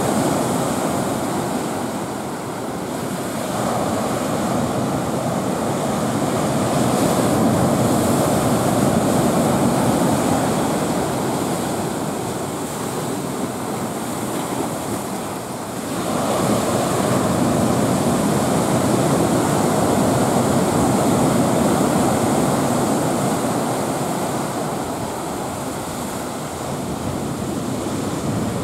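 Rough sea with typhoon swell breaking on the shore: a continuous, loud wash of surf that swells and eases over several seconds, with a sudden surge about halfway through.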